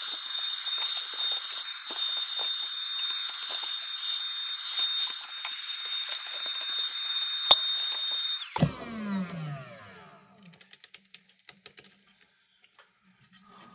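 A handheld electric dust-cleaning tool with a small high-speed motor runs with a steady hiss and high whine while it clears dust from inside an opened computer power supply. About eight and a half seconds in it is switched off and its motor spins down with a falling tone, followed by a few faint clicks.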